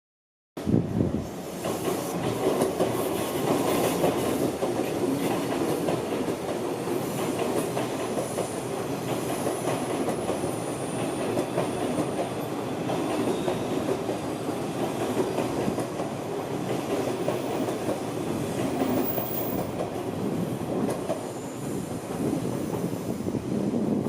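Odakyu Odawara Line train running through a level crossing, its wheels clattering over rail joints and switches in a dense, continuous rumble that starts abruptly about half a second in.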